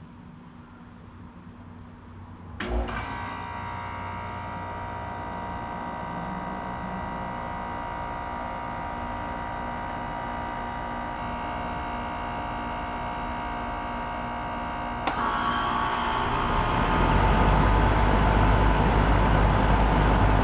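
Air conditioner outdoor unit starting up: a faint hum, then a sudden start about three seconds in, after which it runs with a steady, many-toned hum. About fifteen seconds in it grows louder, with a rushing sound and a deep rumble.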